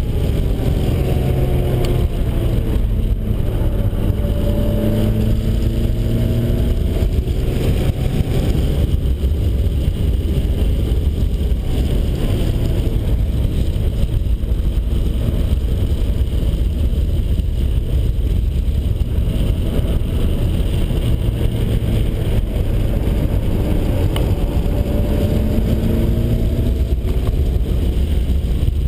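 Turbocharged 1.9-litre four-cylinder of a 1991 Mazda Miata running hard on track, its pitch dropping and then climbing again twice, over a heavy steady rumble of wind and road noise.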